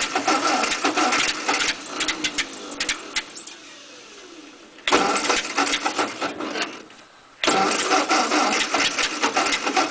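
A 1948 Ford 8N's four-cylinder flathead engine being cranked over by its 6-volt starter in three bursts without catching. Each burst stops and the spin winds down with a falling pitch after the first. It is a cold, reluctant start on an engine that floods easily, and the owner is unsure whether it is flooded or needs the choke.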